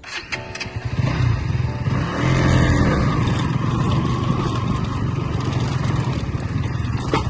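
KTM Duke 200's single-cylinder engine running under way, with a rush of road and wind noise. Its note rises and falls about two to three seconds in.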